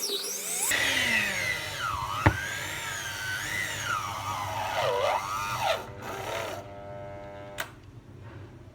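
Electric mixer motor running, probably kneading bread dough, its whine rising and dipping in pitch as the load changes. It buzzes briefly and stops with a click near the end.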